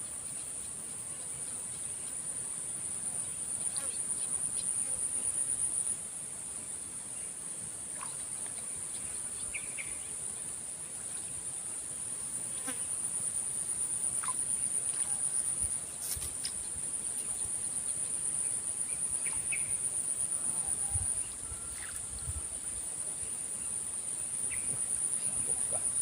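Outdoor insect chorus: a steady high-pitched chirring that builds up and drops back suddenly a few times. A few faint clicks and taps.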